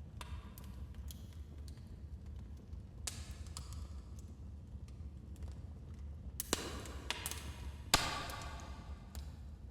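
Wood fire in a fireplace crackling: scattered sharp pops and snaps over a low steady rumble of the flames, with the loudest pop about eight seconds in, followed by a brief hiss.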